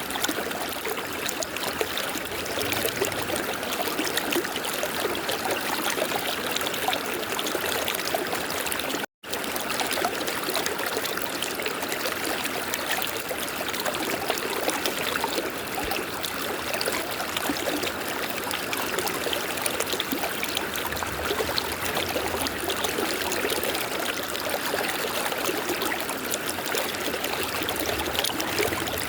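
River water flowing and babbling steadily, with a momentary cut to silence about nine seconds in.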